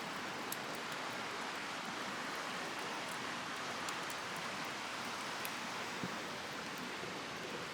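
Campfire crackling, with a few sharp pops and snaps from the burning wood over a steady rushing noise.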